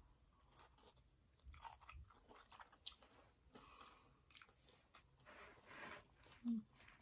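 Faint close-up chewing of a mouthful of stir-fried noodles, with soft wet mouth sounds and small clicks.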